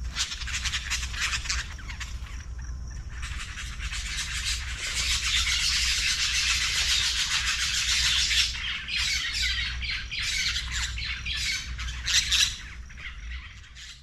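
Birds squawking and chattering in a dense, harsh run of calls, loudest in the middle and fading out at the end.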